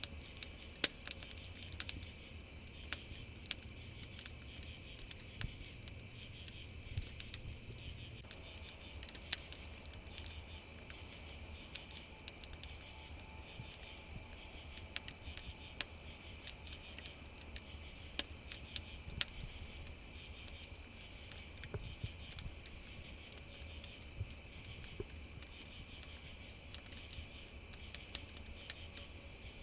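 Crackling campfire, irregular sharp pops and snaps, a few much louder, over a steady chorus of crickets chirping.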